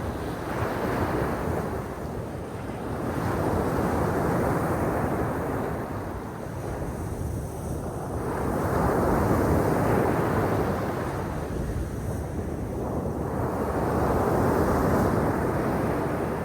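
Black Sea surf washing onto the shore, the noise of the waves swelling and ebbing in slow surges every four to five seconds.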